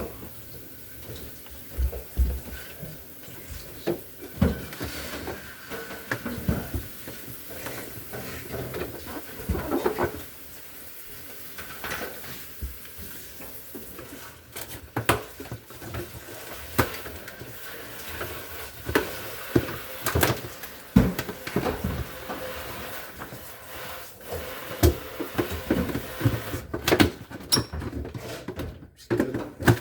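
Irregular clicks, knocks and light clatter of parts and tools being handled during appliance repair work, with quieter stretches between.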